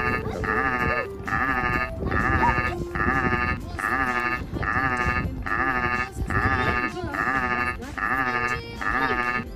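Sheep bleating in a quick, even series of short calls, a little under two a second.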